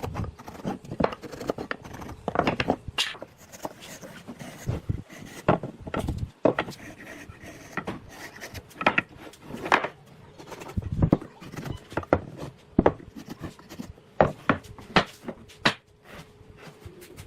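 Irregular knocks, taps and short scrapes of wooden pieces being handled and fitted by hand.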